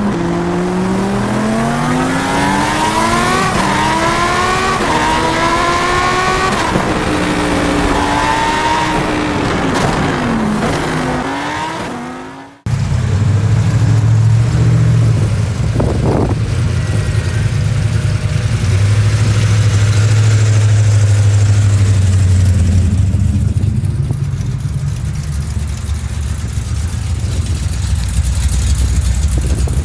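Car engine revved several times, its pitch climbing and falling away. After an abrupt cut, a deep, steady engine rumble runs at idle.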